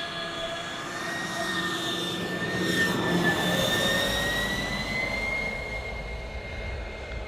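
Radio-controlled model Airbus A380 in flight, its ducted fans giving a steady whine of several tones whose pitch creeps slowly upward. It gets louder as the model passes closest about three seconds in, then fades.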